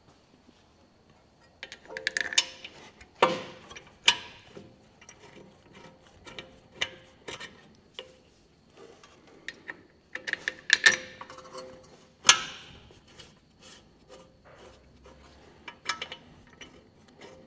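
Toyota Hilux LN167 front brake caliper being worked onto the disc by hand: irregular metallic clunks, clicks and scrapes with some short ringing, in clusters with pauses between.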